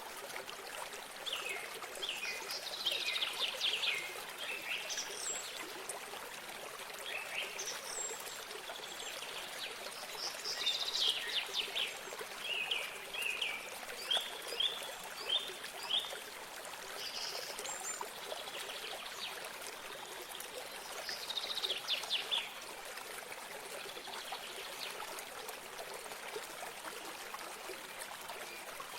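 Wild birds singing over steadily running water. Bursts of chirps and trills come around three, eleven and twenty-two seconds in, with a run of short repeated notes from about fourteen to sixteen seconds.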